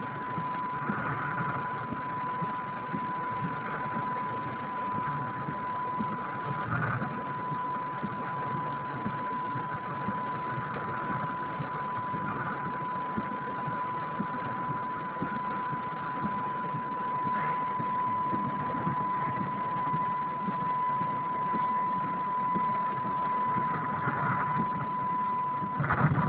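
Heavy rain falling on a parked car, heard from inside the cabin as a steady rushing noise. A thin, steady high tone runs under it.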